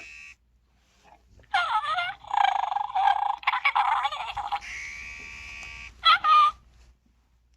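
Electronic animal chirps and squeaks from a Senario Scoozie toy ferret's small speaker: a run of quick gliding chirps, a steady hiss, then one last short chirp about six seconds in.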